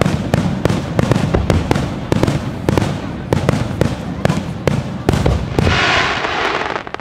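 Aerial fireworks going off in a rapid, uneven barrage of sharp bangs over a deep booming rumble. About a second before the end, a loud rushing hiss rises for roughly a second, then thins into scattered cracks.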